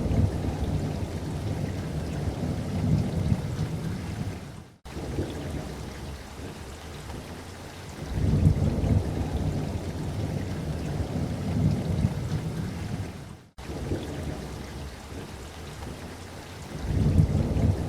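Steady light rain pattering, with low rolls of thunder rumbling three times, near the start, about halfway and near the end. The sound cuts out for an instant twice.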